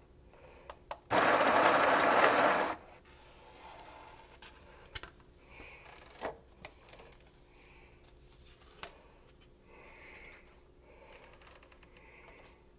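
KitchenAid KCG8433 conical burr coffee grinder running for about a second and a half, grinding beans at its coarsest setting. A few light clicks and handling knocks follow.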